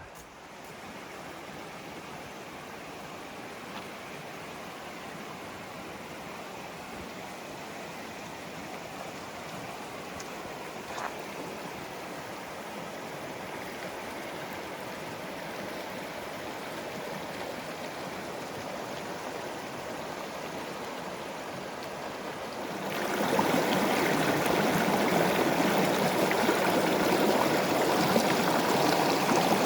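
A creek's rushing water, a steady hiss that grows slowly louder and then jumps much louder about 23 seconds in.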